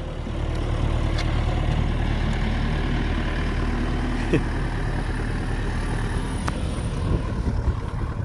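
A large engine idling steadily, a low, even hum.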